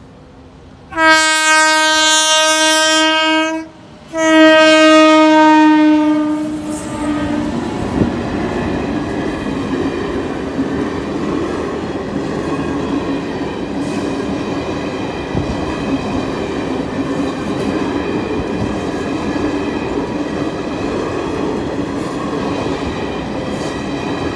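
WAP-7 electric locomotive sounding its horn in two long blasts, the second sliding down in pitch as it fades. Then the passenger coaches rush past with a steady rumble and the clatter of wheels over the rail joints.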